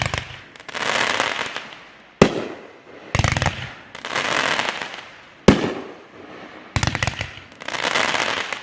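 Aerial fireworks bursting: three sharp bangs, at the start, about two seconds in and about five and a half seconds in, each followed by a stretch of crackling and hissing from the bursting stars.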